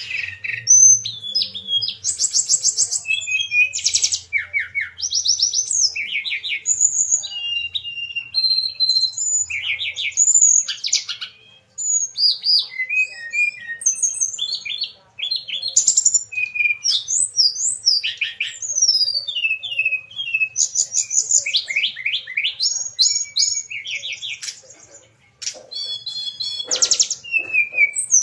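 A songbird in full, vigorous song: a long, rapid, varied string of chirps, fast trills and whistled glides, broken by short pauses about twelve, fifteen and twenty-five seconds in.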